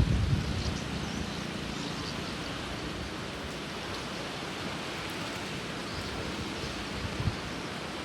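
Steady rain falling, an even hiss, with one brief low thump about seven seconds in.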